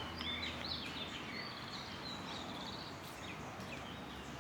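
Small birds chirping in quick short calls, mostly in the first second and a half, over a steady outdoor background hum.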